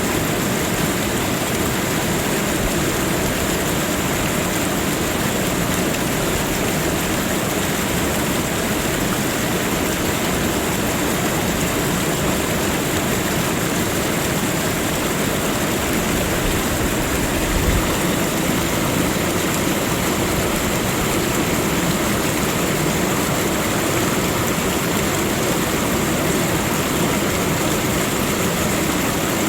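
Steady rushing water, an even, unbroken wash of noise, with a brief low thump a little past the middle.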